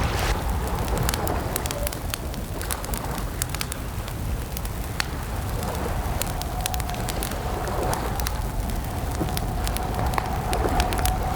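Campfire crackling, with many irregular sharp pops over a low steady rumble, and a faint wavering tone held underneath.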